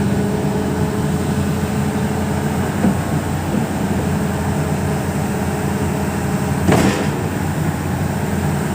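Hitachi 210 excavator's diesel engine running steadily, with one sharp knock about seven seconds in.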